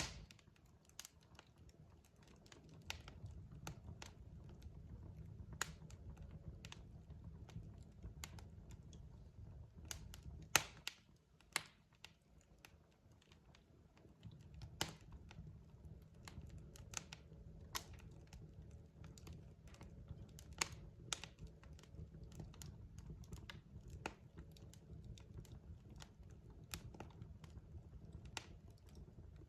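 Wood fire crackling in a fireplace: irregular sharp snaps and pops over a low, soft rumble of burning logs, with a couple of louder pops about ten to twelve seconds in.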